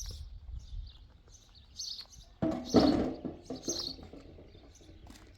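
Small birds chirping in short repeated notes, about twice a second. A louder, partly pitched sound lasting under a second cuts in about two and a half seconds in.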